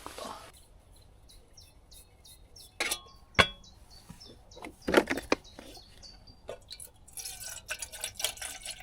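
Small birds chirping over and over, with a few sharp clinks and knocks of camp gear being handled, the loudest about three and five seconds in, and some rustling near the end.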